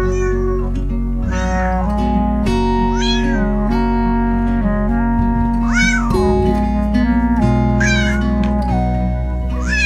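A cat meowing about six times, each meow rising and then falling in pitch, over background music of steady held notes.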